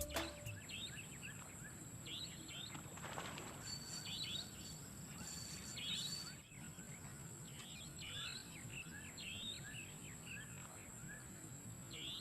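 Small birds chirping in short quick clusters, repeated every second or so, over a thin steady high tone and faint outdoor background noise.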